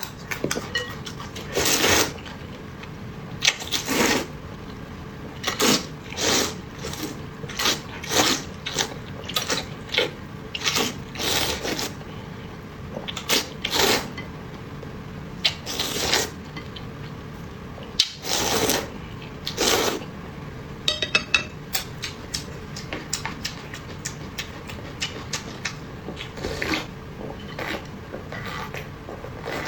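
Close-miked eating sounds: a string of short, sharp slurps and smacks as rice noodles and food are eaten, one every second or two, with a few faint small clicks in between.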